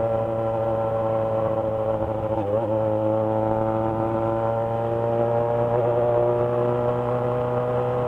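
Yamaha XJ6 motorcycle's inline-four engine running at steady revs while riding, its pitch wavering briefly about two and a half seconds in.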